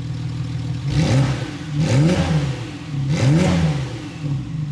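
Six-cylinder car engine idling and then revved three times, each rev rising and falling back to idle.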